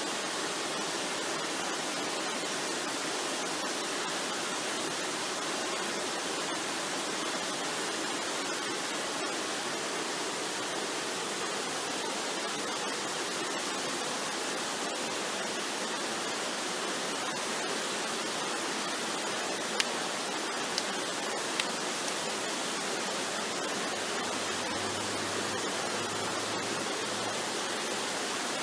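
Waterfall, water rushing steadily with an even hiss, with a few brief sharp ticks about twenty seconds in.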